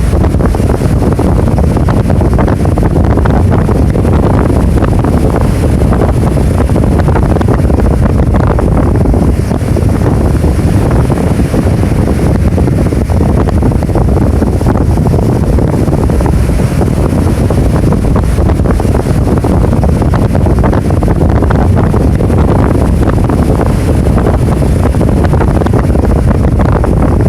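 Heavy storm surf driven by an approaching typhoon, waves breaking continuously, with strong wind buffeting the microphone in a low rumble. Loud and steady.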